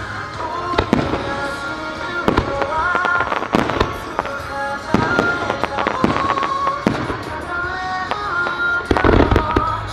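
Aerial firework shells bursting, with sharp bangs and crackles at irregular intervals and a quick cluster of loud bangs near the end, over a steady melodic piece of music.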